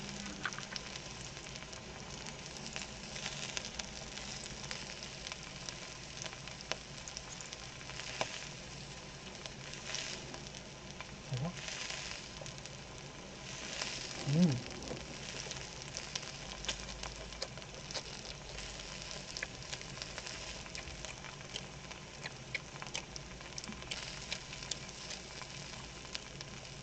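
Pork belly with garlic sizzling in its own rendered fat on a hot pan: a steady frying hiss with frequent small pops and crackles of spattering fat.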